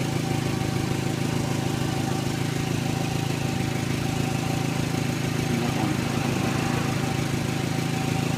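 Toyota MR2 Turbo's 3S-GTE turbocharged four-cylinder engine idling steadily, with a faint constant whine over the hum.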